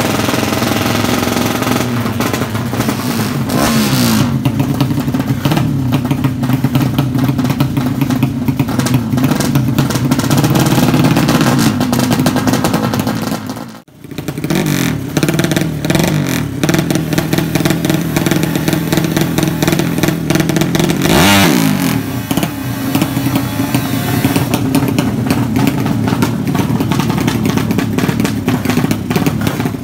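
A drag-racing motorcycle's engine running loud and steady, cutting out abruptly for a moment about 14 seconds in, with a quick swing in revs about 21 seconds in.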